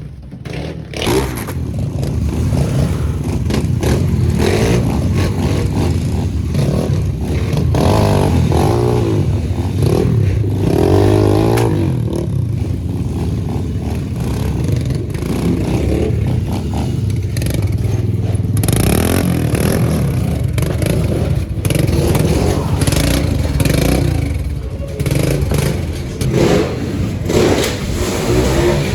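Small pit bike engine running and being revved up and down repeatedly, the pitch rising and falling over and over.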